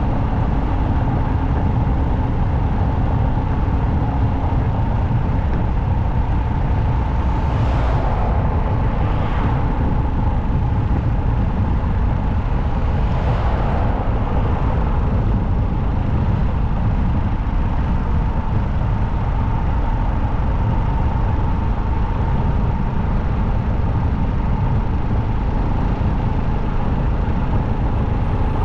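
Motorcycle riding at highway speed: a steady heavy rumble of wind on the microphone over the engine's hum, with brief swells of passing traffic about eight and thirteen seconds in.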